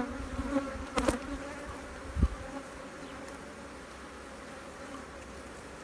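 Honeybees of an opened hive buzzing in a steady hum, with a few sharp knocks in the first couple of seconds.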